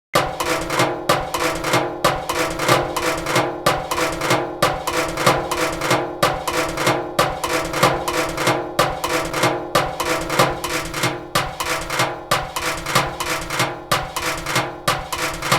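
A looped drum pattern played back from a Maschine groovebox, built from found-sound percussion samples: knocks and clanks in a fast, steady rhythm over a sustained ringing tone.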